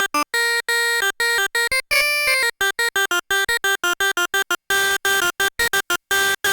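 Sequential Circuits Prophet-5 Rev 2 analog polyphonic synthesizer playing rapid staccato notes with a bright, buzzy tone, each note cut off short. There is a brief pitch glide about two seconds in, and the notes come faster and denser in the second half.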